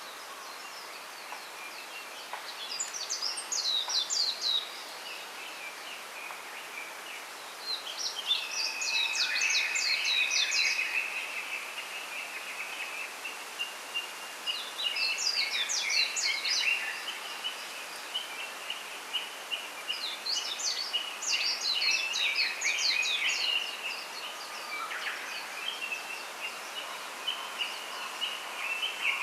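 Small songbirds singing: bursts of quick high chirping notes every five or six seconds, over a long high trill that runs through most of the stretch, with a steady outdoor hiss beneath.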